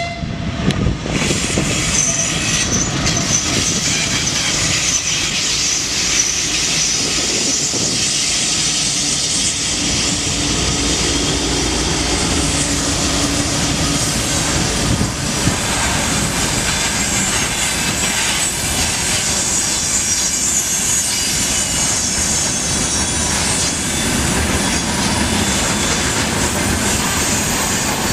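Freight train rolling past: a loud, steady rush of steel wheels on the rails with clatter from the wheels. Thin, high wheel squeals come about two seconds in and again near the end.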